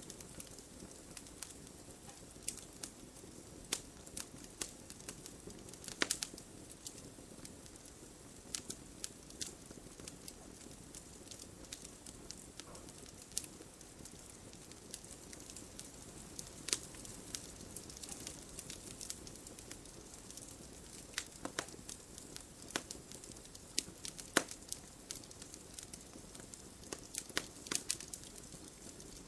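Campfire burning with a soft steady hiss and irregular sharp crackles and pops of wood, a few louder snaps among them.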